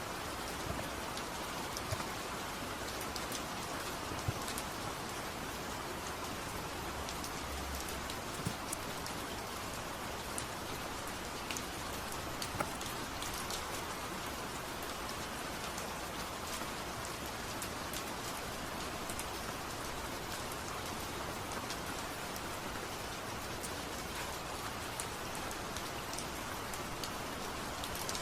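Steady rain falling: an even hiss with scattered brief ticks of drops.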